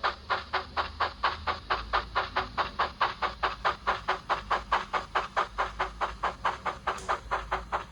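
Model steam locomotive sound from a DCC sound decoder: a Baldwin steam exhaust beat played through the small upgraded speaker in a Bachmann 009 Baldwin, chuffing steadily at about four to five beats a second as the loco runs.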